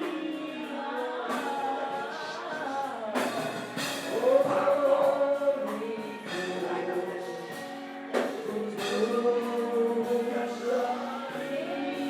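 A congregation singing a gospel song together, with held sung notes over a beat of percussion strokes every second or two.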